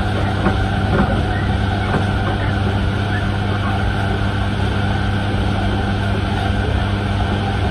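Inside a passenger train running at speed: a steady low hum over the rumble of the wheels on the rails, with a few faint knocks in the first two seconds.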